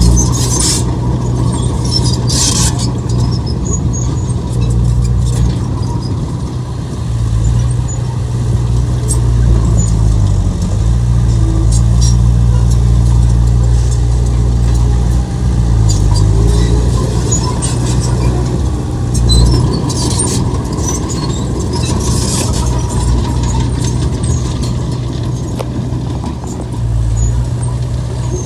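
Komatsu bulldozer's diesel engine running steadily under load, its pitch dipping briefly twice, with scattered high squeaks and clinks from the working machine.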